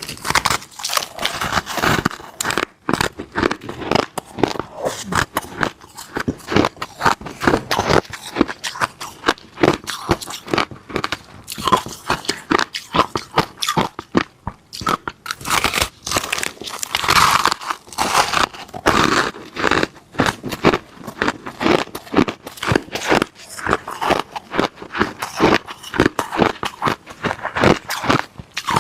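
Ice being bitten and chewed close to the microphone: rapid, irregular crunches and cracks, several a second, with only brief pauses.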